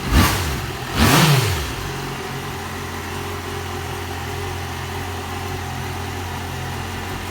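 Yamaha XJ6 600 cc inline-four engine running, revved twice in quick succession near the start, then settling back to a steady idle. It carries the metallic top-end noise that the owner suspects comes from the valves, tappets or a con-rod bushing; his mechanic calls it normal.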